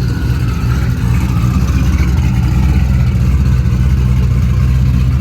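Car engine running at a steady speed, a loud low rumble that swells a little about a second in.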